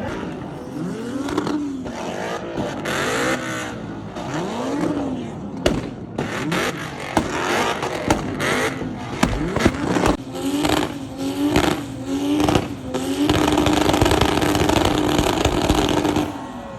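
A car engine being revved: the pitch swings up and down several times, with sharp pops and cracks in the middle and a string of quick blips. Near the end it is held at a steady high pitch for a few seconds, then drops off.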